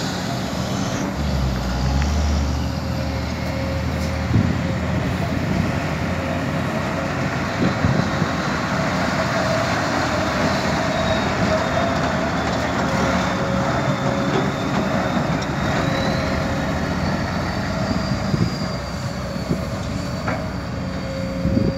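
Kobelco SK200 excavator's diesel engine running steadily, with a faint high whine that slowly drifts in pitch.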